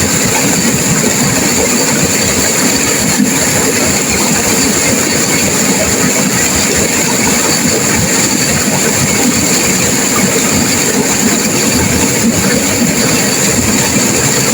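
Turbulent river water rushing and crashing in a steady, unbroken wash of noise.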